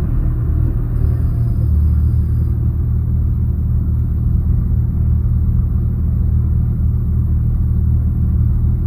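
A loud, steady low rumble with no clear beat or pitch change.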